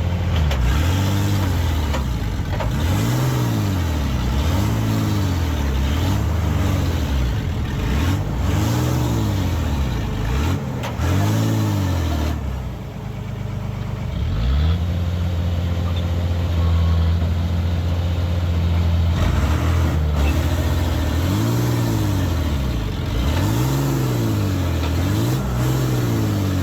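Heavy-equipment diesel engine revving up and down over and over, about once every two seconds. In the middle it holds a steady high speed for several seconds, then the rising and falling revs resume.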